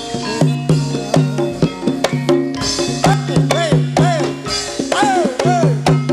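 Banyumasan gamelan music for ebeg: pitched struck notes and drum strokes in a steady beat of about two a second, with gliding tones over it.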